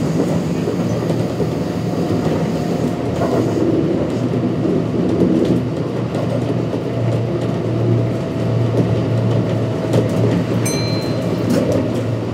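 Kintetsu 1249 series electric train with Hitachi GTO-VVVF traction running between stations: a steady rumble of wheels on rail with a faint steady motor tone and occasional clicks. A brief high-pitched squeal comes near the end.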